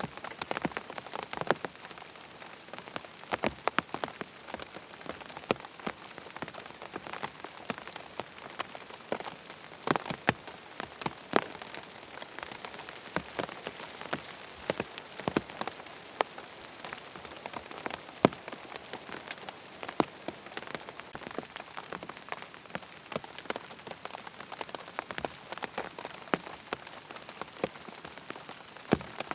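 Steady rain falling on a surface, with many sharp drop ticks scattered irregularly over an even hiss.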